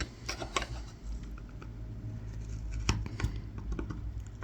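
A knife blade cutting fine kolrosing lines into a wooden spoon: an irregular scatter of small clicks and scratches as the tip bites into the wood. A steady low hum runs underneath.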